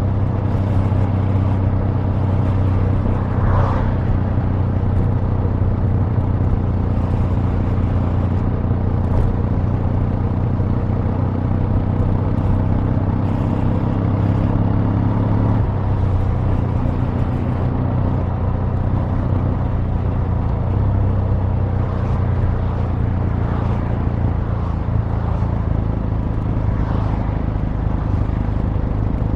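Kawasaki W800's air-cooled parallel-twin engine and exhaust running steadily with a deep, even note; the tone changes about halfway through, losing some of its higher overtones.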